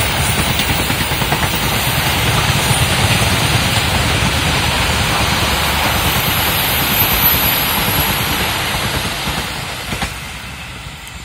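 Passing train: a loud, steady rumble that fades away over the last few seconds as the train moves off.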